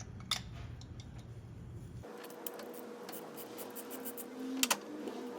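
Light metallic clicks and scraping of a 5/8-inch magnetic spark plug socket and wrench being fitted and worked on a spark plug, with a sharper double click near the end.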